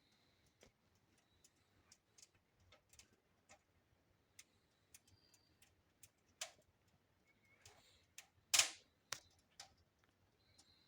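Wood fire burning in a newly fired fireplace firebox, giving sparse, irregular crackles and ticks, with one louder crack about eight and a half seconds in.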